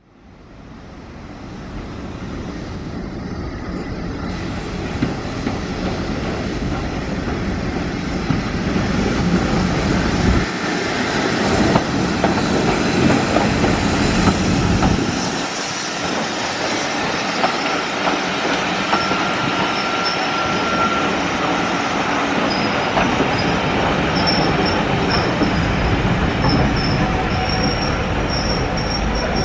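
A British Railways Mk1 passenger coach running along the track: wheels rumbling and clattering over the rails, with thin high-pitched wheel squeal sounding in the second half. The sound fades in from silence over the first few seconds.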